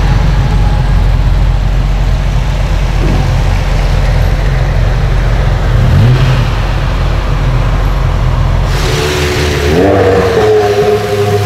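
A car engine running with a steady low rumble, then about nine seconds in a rush of noise and an engine note that climbs and holds as the car revs or pulls away.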